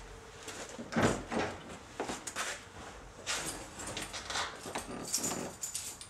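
A series of irregular knocks and clunks with rustling in between, the loudest about a second in.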